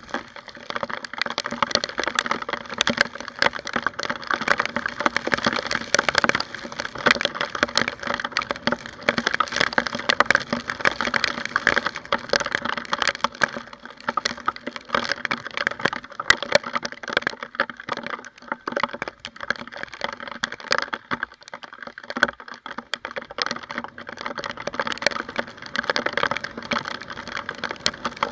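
Raindrops striking a motorcycle's rear-mounted camera housing in a dense, continuous crackle of sharp ticks, over steady riding noise.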